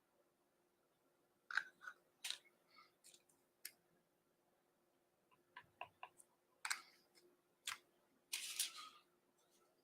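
Faint scattered clicks and short scratchy scrapes of small art tools being handled and worked on the painting, with a slightly longer scrape near the end. A faint steady hum runs underneath.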